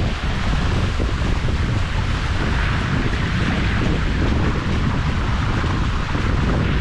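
Wind buffeting the microphone over the rushing hiss of water along the hulls of a Hobie 16 catamaran sailing fast. Steady and loud throughout.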